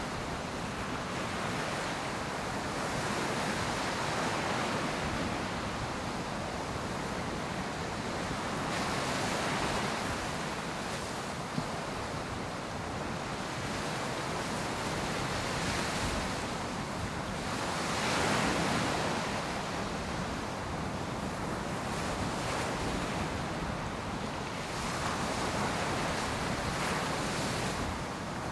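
Ocean surf breaking on a sandy beach: a continuous wash of noise that swells each time a wave comes in, every several seconds.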